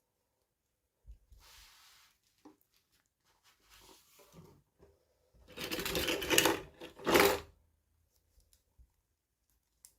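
Toy packaging being handled and torn open by hand: a soft rustle early on, then a loud crinkling, tearing stretch about five and a half seconds in, followed by a shorter burst just after seven seconds.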